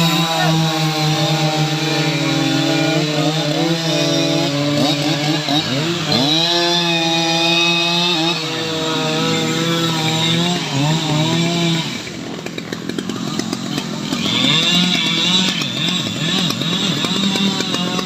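Stihl MS 881 two-stroke chainsaw running at high revs while cutting teak wood, its pitch sagging and recovering several times as the chain loads up in the cut. About twelve seconds in the saw's sound drops in level and changes.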